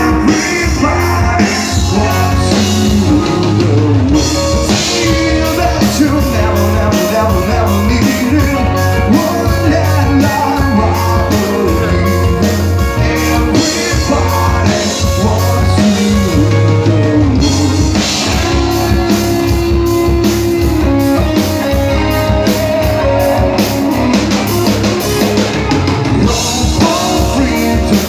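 Rock band playing live: drum kit, electric guitar and a singing voice, loud and steady throughout.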